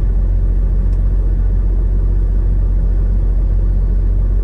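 Steady low drone of a semi truck's diesel engine, heard from inside the cab.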